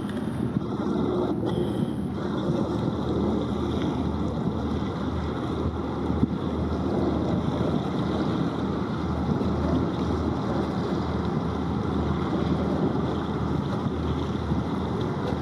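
Wind buffeting the microphone: a steady low rushing noise.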